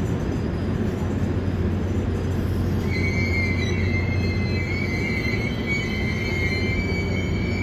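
Passenger train rolling into a station with a steady low rumble. About three seconds in, a high-pitched squeal from the wheels starts and holds at one pitch, with a fainter higher tone above it.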